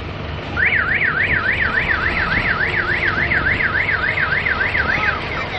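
An electronic warning siren warbling, its pitch sweeping up and down about three to four times a second; it starts about half a second in and stops near the end. A steady low engine and traffic rumble runs underneath.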